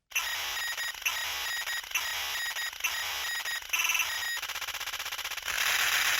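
A stock cartoon sound effect: a noisy hiss with a beat about once a second, a short burst with a steady tone near four seconds in, then a fast, even rattle that gives way to a louder, denser noise.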